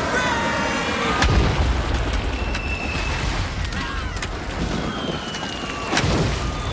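Action film soundtrack: a steady rumbling wash of noise with two heavy booms, about a second in and near the end, and short high whistle-like tones in between.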